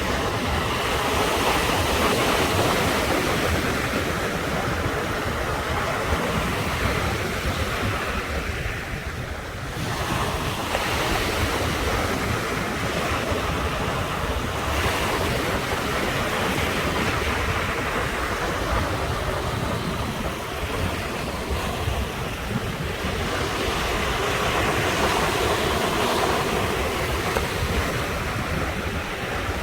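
Ocean surf breaking and washing on the shore, a continuous hiss that swells and ebbs every several seconds, with wind buffeting the microphone.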